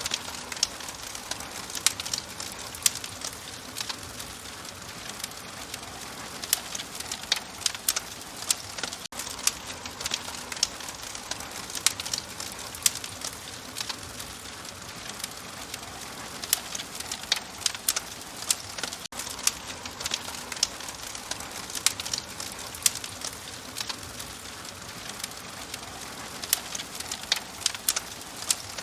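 Fire crackling in a fireplace: a steady soft hiss with frequent sharp, irregular pops and snaps.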